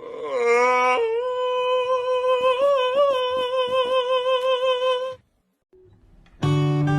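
A voice holds one long hum-like note that rises in pitch over the first second, then stays level for about four seconds before cutting off. Strummed acoustic guitar music starts near the end.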